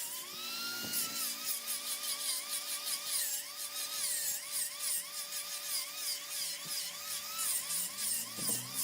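Large wood lathe cutting a mahogany workpiece: a high whine that wavers up and down about twice a second, over a steady hum, with fine rapid ticking and hiss from the cut.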